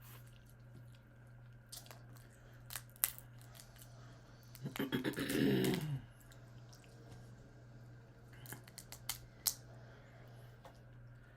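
Close-up eating sounds: scattered small clicks and crunches of chewing. About five seconds in there is a louder, falling voice-like sound lasting about a second and a half, over a steady low hum.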